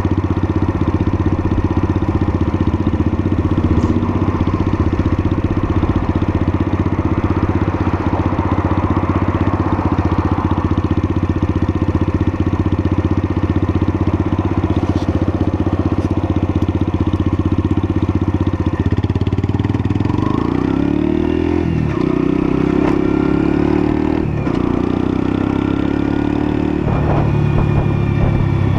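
A Lexmoto LSM 125 125cc motorcycle engine running under way, heard steadily for most of the stretch. About two-thirds through, its note changes and glides up and down, and it picks up again near the end.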